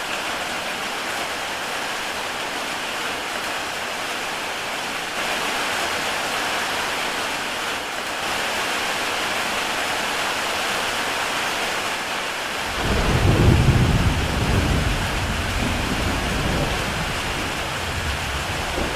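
Heavy rain falling steadily on a tile roof. About two-thirds of the way through, a low rumble of thunder sets in, loudest a second later, then fades away over several seconds.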